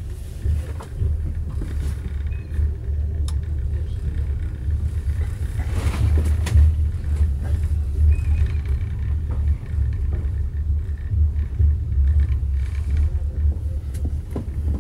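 A passenger train carriage running along the track, heard from inside: a steady low rumble with a few sharp clicks, swelling louder for a moment about six seconds in.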